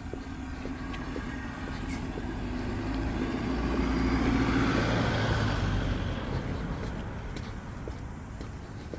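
A motor vehicle driving past: its engine and tyre noise swell to a peak about halfway through, then fade away.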